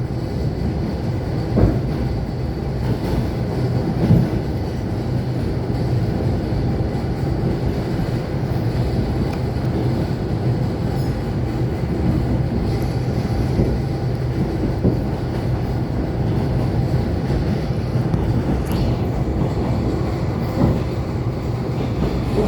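ET2 electric multiple unit running along the line, heard aboard: a steady rumble of wheels and running gear with a few single knocks from the wheels over rail joints.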